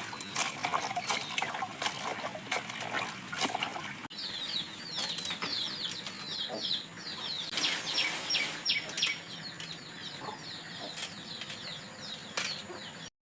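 Rustling and clicking at first, then, after an abrupt cut about four seconds in, a long run of high, short, falling chirps from birds or chicks, repeated many times.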